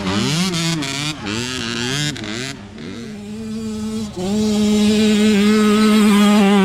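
Several mini dirt bike engines revving up and down over one another. About four seconds in, one bike close by is held at steady high revs, the loudest sound.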